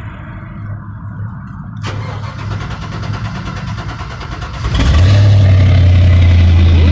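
LS-swapped V8 being started through its newly fitted exhaust: the starter cranks for a few seconds, then the engine catches near the end and settles into a loud, steady idle.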